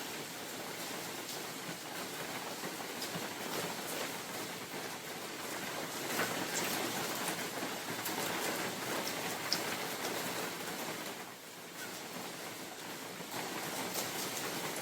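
Steady rain falling in a forest: an even hiss of rainfall with many separate drops ticking close by. It eases briefly about eleven seconds in.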